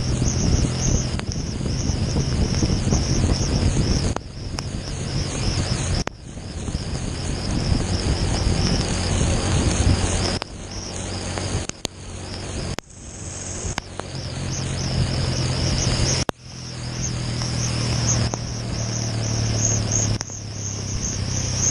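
Motorcycle engine running under acceleration, the revs building and then dropping sharply several times as it shifts up through the gears.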